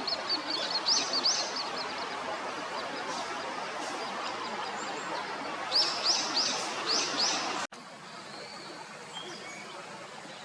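Wild bird calling in short, high, rising notes: a fast run of notes at first, two more about a second in, then a quick series of about six near the middle, over a steady outdoor background hiss. The recording cuts off abruptly about three-quarters of the way through to a quieter background.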